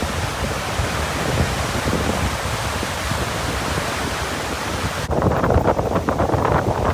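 Strong typhoon wind and choppy lake waves, heard as a loud, steady rushing hiss. About five seconds in it changes abruptly to heavier, lower gusts buffeting the microphone.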